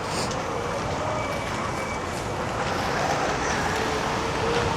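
Steady noise of a rain-soaked city street: an even hiss over a low rumble, with a faint wavering tone.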